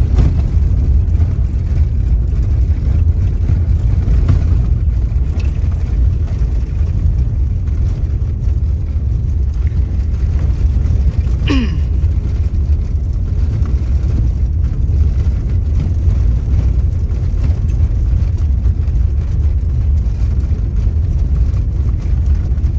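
Steady low road and engine rumble inside a moving car's cabin, with a brief falling tone about halfway through.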